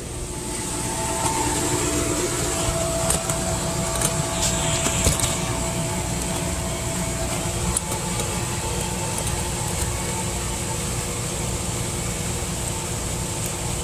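A steady low mechanical rumble with a few faint steady tones over it, like a motor running, and a handful of light clicks about three to five seconds in.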